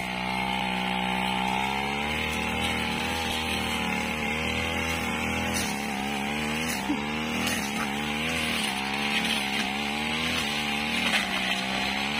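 Brush cutter's small engine running steadily while cutting grass, its pitch wavering slightly up and down as the load on the blade changes.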